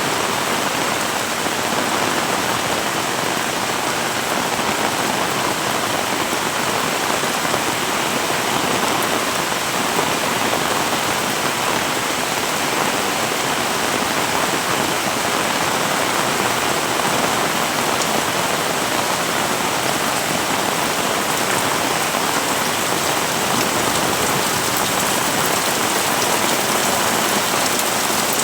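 Heavy rain falling steadily, a dense unbroken hiss of drops on surfaces.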